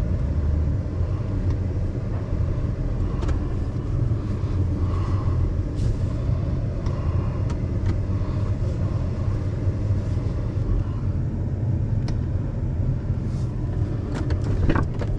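Steady low rumble of a truck's engine running, with a few faint ticks.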